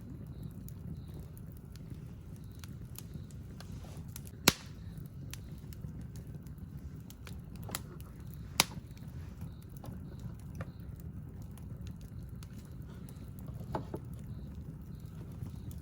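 Wood campfire crackling: scattered snaps and pops over a steady low rumble, with two sharp loud pops about four and a half and eight and a half seconds in.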